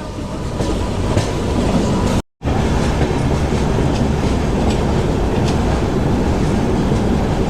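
Passenger train running into a station, heard from the coach's vestibule: a steady loud rumble of the moving coach with light clatter of wheels over rail joints. The sound cuts out for a moment about two seconds in.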